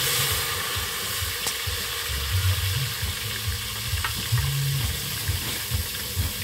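Chopped onions and tomatoes sizzling in a hot pan as they are scraped in with a wooden spoon: a steady frying hiss.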